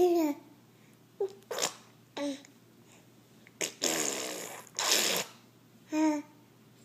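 A young child babbling at a ceiling fan in short bursts, about seven in all. Some are high-pitched calls that fall in pitch; others are breathy, spluttering blows.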